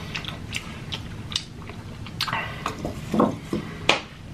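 Close-miked chewing of butter-sauced seafood boil: wet mouth smacks and clicks, a few louder ones in the second half.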